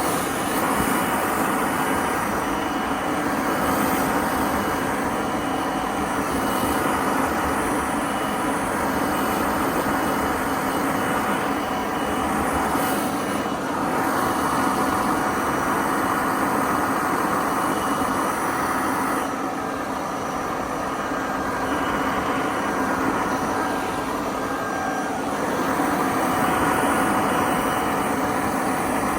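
A motor running steadily, with a constant hum and whine over a hiss; it dips slightly about 19 seconds in.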